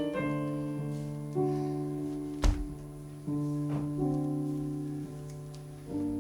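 Slow, sustained piano chords, a new chord struck every second or two, with a single thump about two and a half seconds in.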